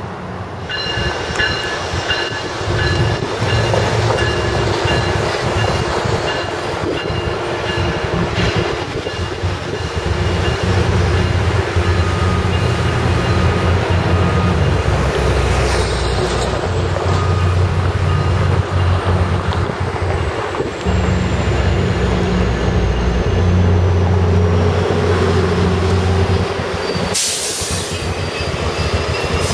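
A Metrolink push-pull commuter train rolling past on a bridge, its cars running with thin steady wheel-squeal tones. The low diesel rumble of the pushing EMD F40PH locomotive swells as it comes closer in the second half. A short sharp burst of noise stands out near the end.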